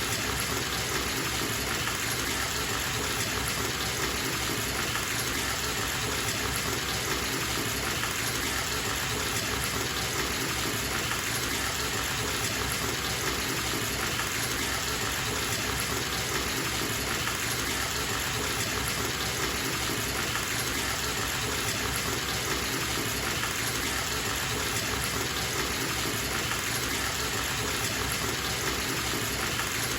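Bathtub filling from a running tap: a steady, unbroken gush of water pouring into the tub.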